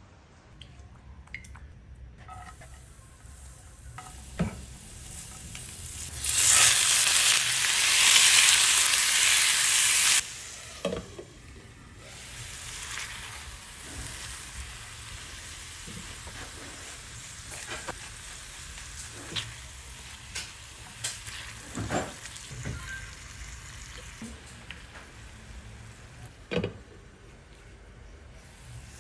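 Chicken pieces frying in oil in a pan with onion and garlic. A loud sizzle runs for about four seconds, starting a few seconds in. After it drops to a quieter sizzle, a spatula stirs the pan with scattered knocks and scrapes.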